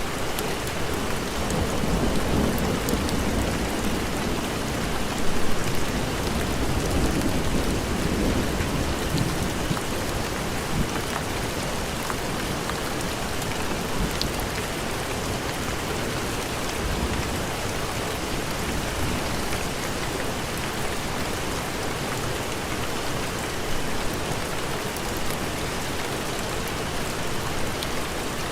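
Steady heavy rain, with a low rolling rumble of thunder through roughly the first nine seconds that is loudest about five seconds in.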